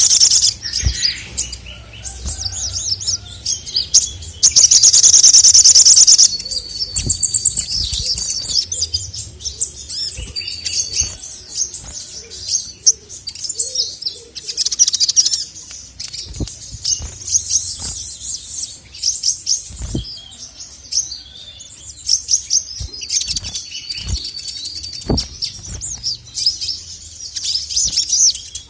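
Male ruby-cheeked sunbird (sogon) in full song: a steady stream of fast, high chirps and twitters, with a loud, rapid trill about five seconds in.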